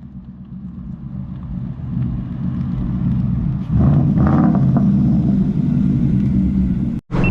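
Car engine running with a low, steady rumble that builds over the first few seconds and gets clearly louder about halfway through, then cuts off abruptly near the end.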